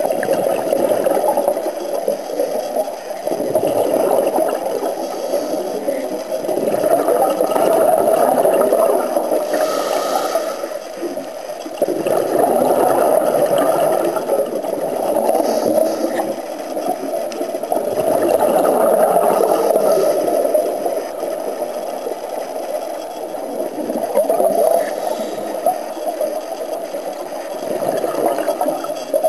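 Scuba diver's exhaled bubbles bubbling out of the regulator, heard underwater. It comes in surges every five or six seconds, one per breath out, with quieter gaps between as the diver breathes in.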